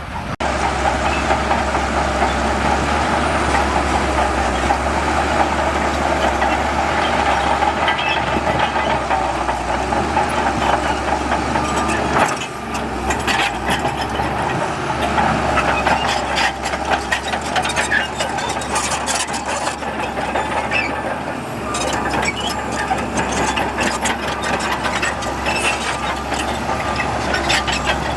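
Heavy diesel earthmoving machinery running steadily, with clusters of metallic rattles and knocks.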